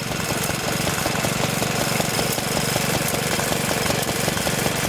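Lister D single-cylinder stationary engine running steadily with a rapid, even exhaust beat while belt-driving a Lee Howl pump.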